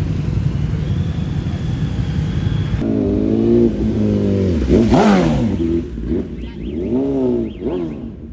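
A vehicle engine running steadily, then, about three seconds in, revved hard several times in quick blips, the biggest about halfway through.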